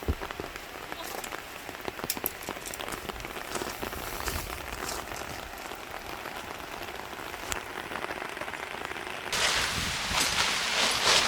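Rain falling, with many separate drops ticking; it grows louder about nine seconds in.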